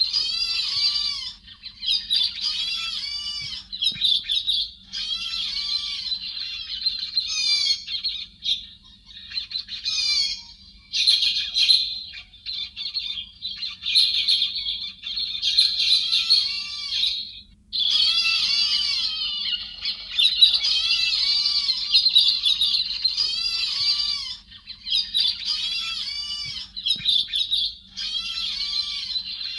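Héc xoan bird calling in continuous runs of harsh, chattering notes, strongest high in pitch, broken by short pauses. This is a lure recording of the bird's call.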